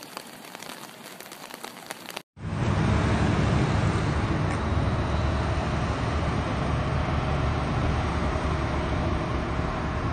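Rain falling with a light, even patter, then an abrupt cut about two seconds in to a loud, steady, deep rushing roar of fast-flowing floodwater.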